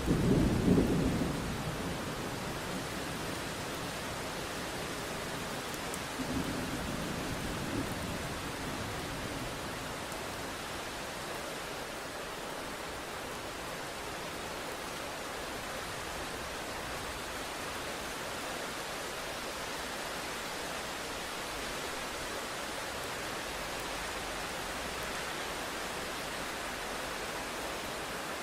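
Steady, even rain with thunder: a loud low rumble in the first couple of seconds and a softer one about six seconds in, then rain alone.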